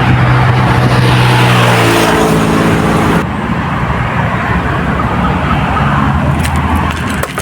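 A motor engine running loud and close, its pitch shifting about two seconds in, then cutting off abruptly about three seconds in, leaving a steady, slightly quieter background noise.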